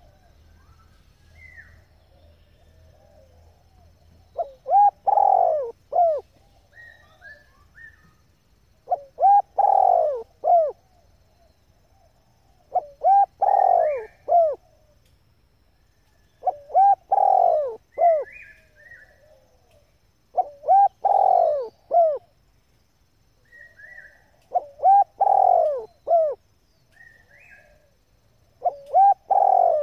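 Female spotted dove cooing: seven short phrases of three or four low coo notes, one about every four seconds. Faint chirps from small birds come between the phrases.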